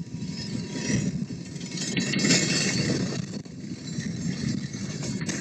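A train rumbling as it moves, an uneven low noise without a clear engine tone.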